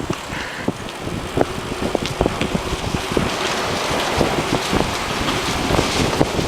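Wind buffeting the microphone over the rattle and knocking of a moving bicycle, with tyre noise on a paved trail.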